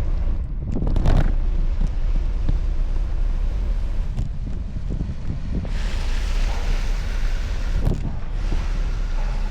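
Wind buffeting the microphone of a moving bicycle, a steady low rumble with a brief louder gust about a second in. A hiss swells for about two seconds past the middle.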